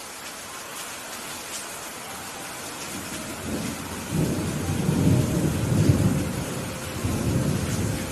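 Steady rain with a rolling thunder rumble that builds about three seconds in, is loudest in the middle and fades away near the end.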